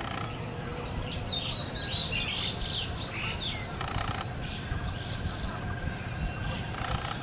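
High-pitched bird chirps and quick sliding whistled notes, in a busy run from about half a second to three and a half seconds in, then a few fainter chirps. Underneath is a steady low rumble of outdoor background noise.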